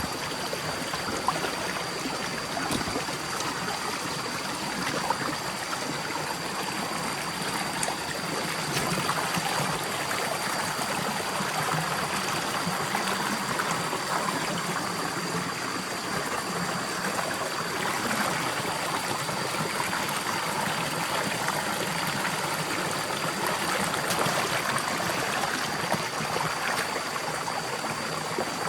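A forest stream flowing, a steady rushing and trickling of water, with a faint steady high-pitched tone above it.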